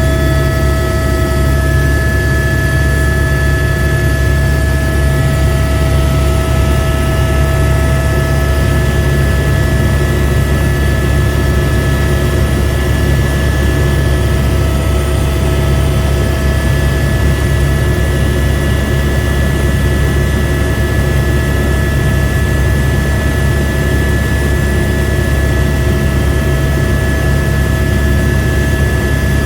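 AS350 B2 helicopter's Arriel turboshaft engine and rotors running steadily, a heavy rumble with several steady high whines over it, heard from inside the cabin. One whine fades out about six seconds in.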